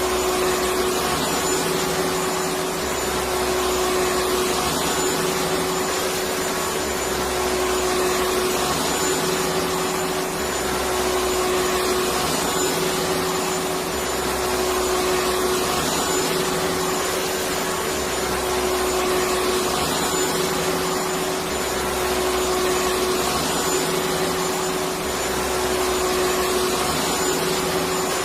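Electric vacuum cleaner running steadily: an even rushing noise with a constant hum.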